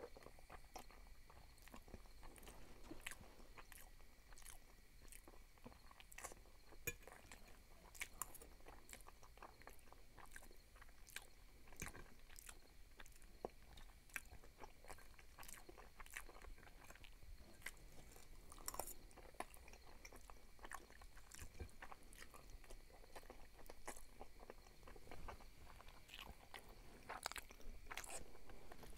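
Close-miked chewing of fettuccine in tomato sauce: soft, wet mouth clicks and smacks scattered irregularly, with a few louder clicks where the fork meets the glass plate. A faint steady high whine runs underneath.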